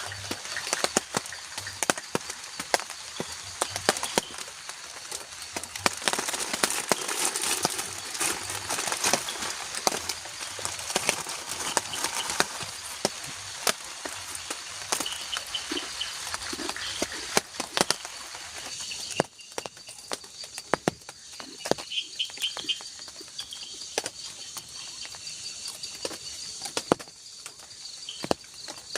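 Light drizzle pattering and ticking on the shelter roof, with forest insects trilling steadily in the night. The patter thins out a little after halfway, leaving the insect calls clearer.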